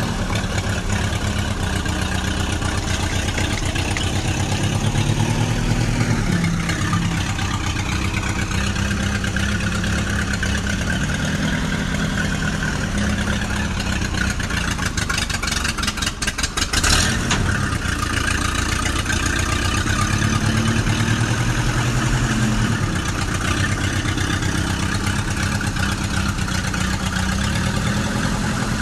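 Tractor engine running steadily, picking up speed briefly twice, with a rapid clattering burst partway through.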